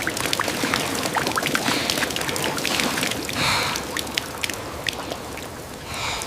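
A steady pouring, rustling noise dotted with many small clicks and ticks, easing slightly in the second half.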